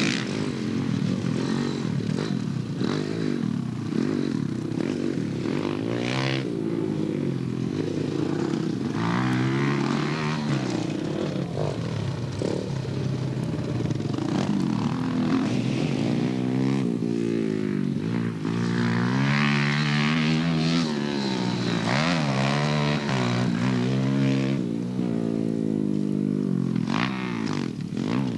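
Dirt bike engine revving up and falling back again and again, as on a rider working through the gears and throttle around a track, with a few short knocks mixed in.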